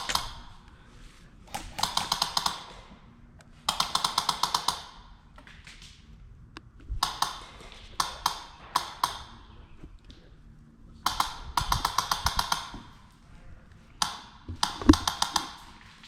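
Airsoft gun firing in repeated short full-auto bursts, each about a second long at roughly ten shots a second, with gaps of a second or two between bursts.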